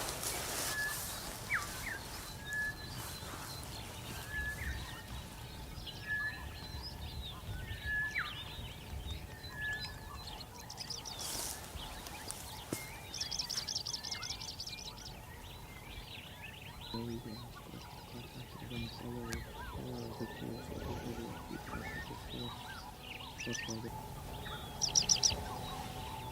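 Wild birds calling in the bush: a short high whistled note repeated about once a second for the first ten seconds, bursts of very rapid high trills, and a lower rapid pulsed call around the middle.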